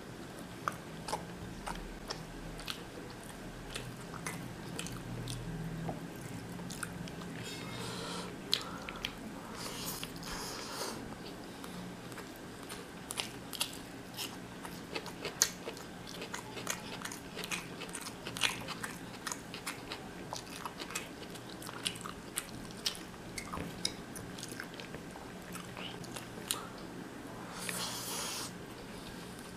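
A man chewing and biting mutton biryani eaten by hand, with many sharp wet mouth clicks and smacks. There are two short spells of louder noise, about eight to eleven seconds in and again near the end, over a faint steady low hum.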